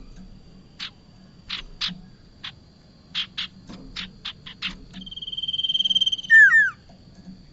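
Prinia (prenjak) calling: a run of about ten sharp chip notes, then a fast rattling trill that grows louder for about a second and ends in two loud downward-sweeping notes. A faint steady high whine runs underneath.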